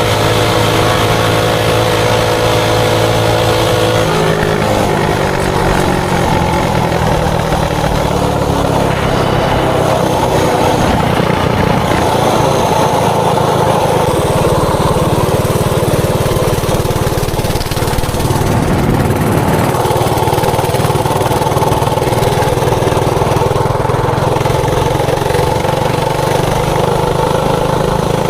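Mini bike's Predator 224cc single-cylinder four-stroke engine running under way: an even note at first, dropping in pitch about four seconds in, then rising and falling with the throttle for the rest.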